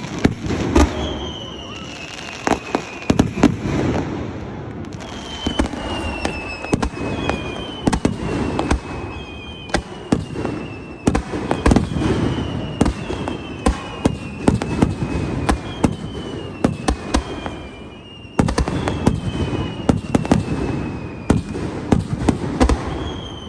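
Fireworks going off: a rapid run of bangs and crackles, with whistles that fall slightly in pitch, one every second or two.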